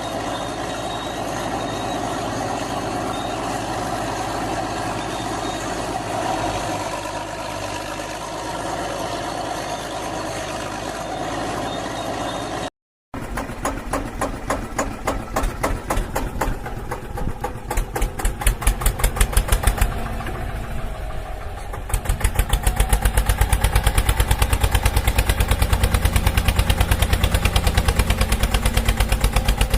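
Diesel engines running: a steady drone, then after a brief cut about halfway through, a rhythmic chugging engine that turns heavier and louder a few seconds later.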